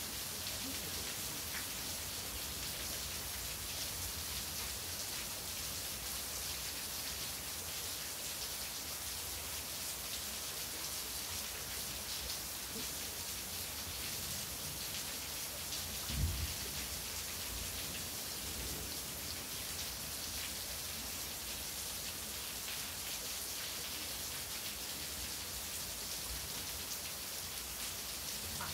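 Steady rain falling in a thunderstorm, an even hiss of drops on surfaces. A single brief low thump comes a little past halfway.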